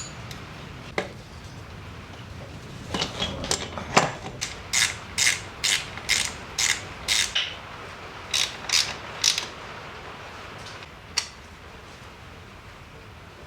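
Ratchet wrench clicking in a run of short strokes, about two a second, as engine studs are wound in, with a few separate metallic knocks.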